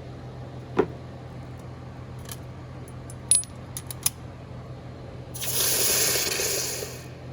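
Small pieces of cast aluminium being handled: a knock, then a quick run of light metallic clinks, then a hiss lasting about a second and a half.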